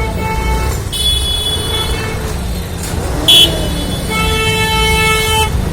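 Vehicle horns honking in a traffic jam over a steady low engine rumble: one long horn blast about a second in, a short sharp high toot a little after three seconds, and another long blast from about four seconds on.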